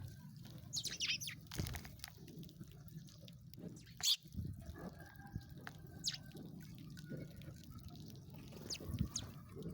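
Sparrows chirping in short, scattered high chirps, with one loud sharp chirp about four seconds in, over a low steady rumble.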